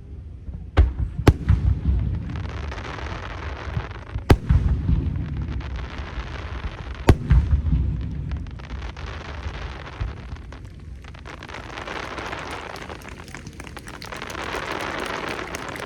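Aerial fireworks shells bursting: four sharp booms, about a second in, half a second later, near four seconds and near seven seconds, each trailed by a low rumbling echo. Dense crackling follows and thickens near the end.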